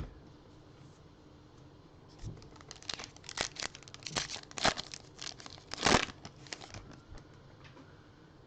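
Plastic trading-card pack wrapper crinkling and tearing as it is opened, a run of crackles lasting a few seconds, loudest about six seconds in.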